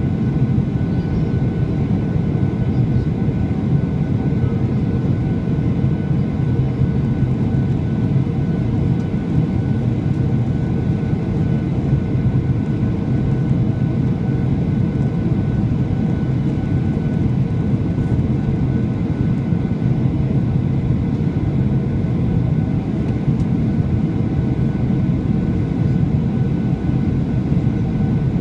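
Steady cabin noise of a Boeing 737-800 heard from a window seat: the hum of its CFM56 turbofan engines mixed with airflow rush, with a few faint steady whining tones, holding an even level.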